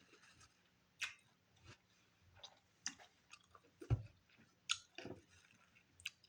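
Close-miked chewing of a taco: irregular wet mouth clicks and crisp crunches, with one low thump about four seconds in.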